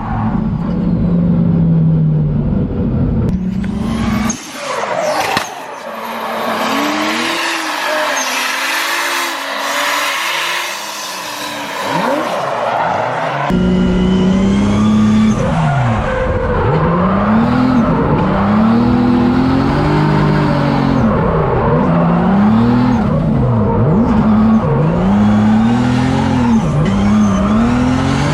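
Drift car engine revving hard and dropping back again and again as the car is thrown sideways, with tyre squeal. Between about four and thirteen seconds in, the sound switches to a thinner, more distant engine note over the hiss of skidding tyres, then the close, full engine note returns.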